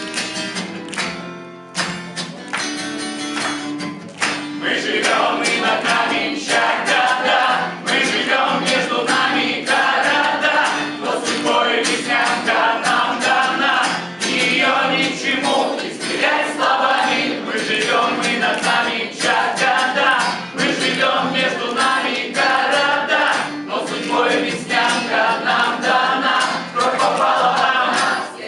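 A group of voices singing a song together to strummed guitar, the singing growing fuller about four seconds in.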